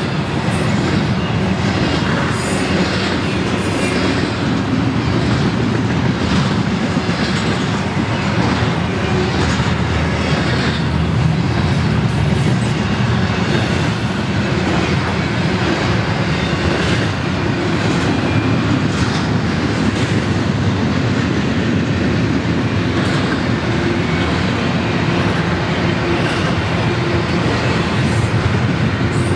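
Double-stack intermodal freight cars rolling past: a steady rumble of steel wheels on rail, with recurring clicks as the wheelsets go by.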